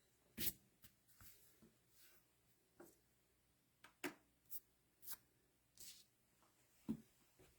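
Faint, irregular clicks and taps, about a dozen, with the loudest about half a second in and another near the end: small objects being handled on a tabletop.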